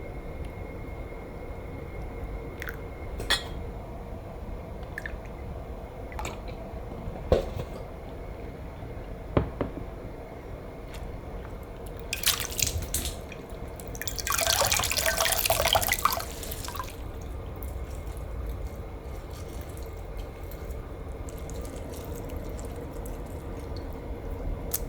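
Kitchen sink sounds: a few light clinks and drips, then water running from the tap for about two and a half seconds past the middle.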